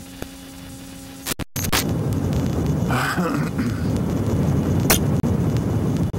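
Strong wind buffeting the microphone on an exposed volcanic crater rim, a loud low rumble. It sets in after an edit about one and a half seconds in, marked by a click and a brief dropout; before that the sound is a quieter steady background.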